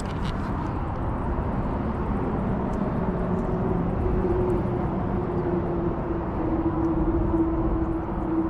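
A steady engine drone with a low hum that holds its pitch, growing stronger from about three seconds in.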